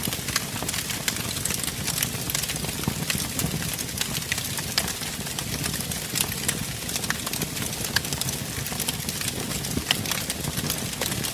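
Wood fire burning with a steady rushing roar of flame and frequent sharp crackles and pops at irregular moments.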